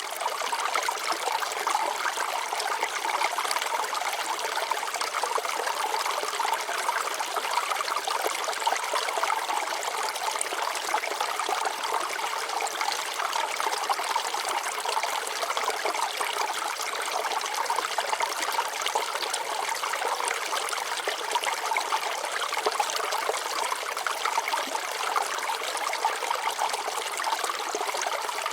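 Water flowing and trickling over rocks in a stream: a steady, even rush with no pauses.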